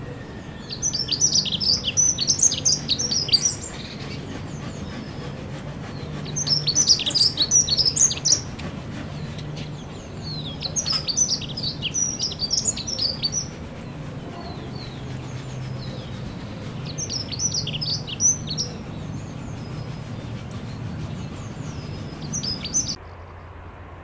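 A songbird singing in five bouts of quick, high chirping phrases over a steady low hum. Near the end the sound cuts sharply to a duller background noise.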